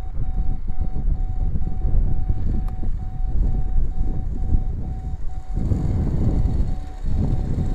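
Strong wind buffeting the microphone in a heavy, gusting rumble that eases briefly about five and a half seconds in, then picks up again. Over it, a steady electronic beep repeats about three times a second.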